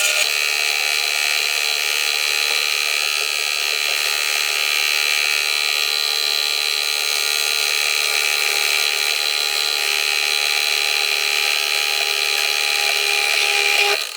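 Electric drill running steadily while drilling into a brass plate, a continuous high whine that cuts off sharply at the end.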